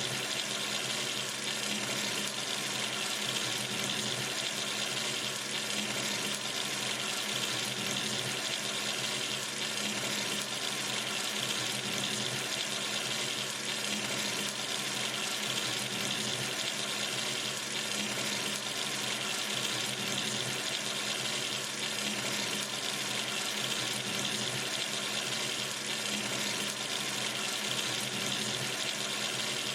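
Water running steadily from a sink tap into the basin, an even splashing rush.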